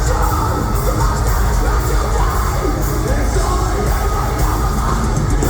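Metalcore band playing live at full volume: heavy distorted guitars and bass over pounding drums, with yelled vocals, heard through a crowd recording in a concert hall.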